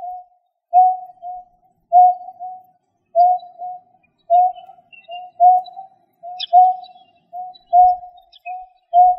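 A bird call on a lure recording repeating steadily, a loud low note followed by a softer one, roughly once a second.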